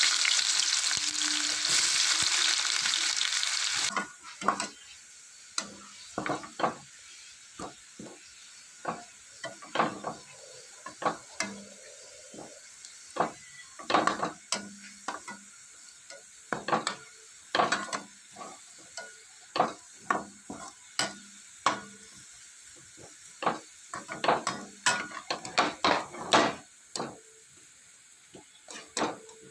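Sliced onions frying in hot oil in a steel pan, sizzling loudly for the first four seconds, then quieter. After that a spatula stirs them, scraping and tapping against the pan many times at an uneven pace.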